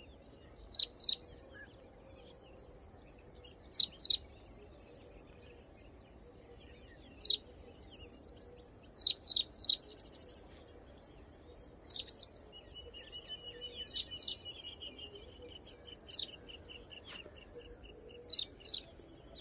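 Small birds chirping: short, sharp high chirps every few seconds, often in pairs or threes, with a steady thin trill running for several seconds in the middle.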